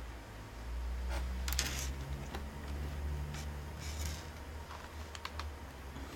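Light clicks and rustles of plastic laptop parts being handled while the screen is fitted, over a low steady hum.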